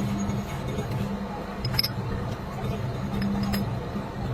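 Steady low hum of a running machine or engine that fades and returns, with a few light metallic clinks; the sharpest clink comes a little under two seconds in.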